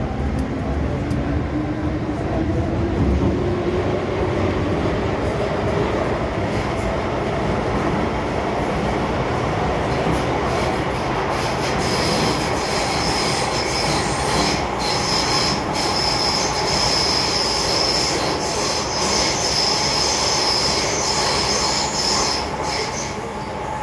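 MTR M-Train electric multiple unit running on the Kwun Tong Line. Its motor whine rises in pitch over the first several seconds as it picks up speed, then holds steady over a constant rumble. From about halfway in until near the end, the wheels give a high, steady squeal.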